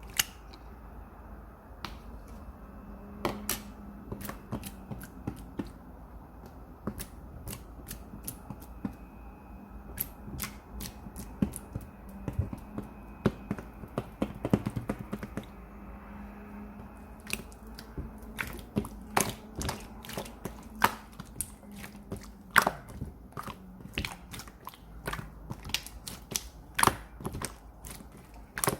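Irregular sharp clicks and taps of objects being handled, sparse at first and coming more often in the second half, over a faint steady hum.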